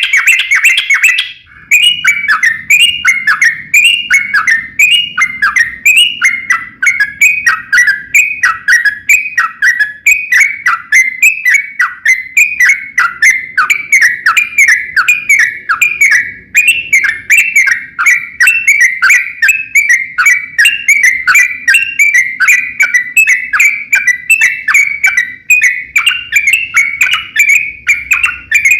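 Yellow-vented bulbul (trucukan) singing a long, unbroken song: a fast, continuous run of bright chattering notes, each sweeping down in pitch, several a second, with hardly a pause.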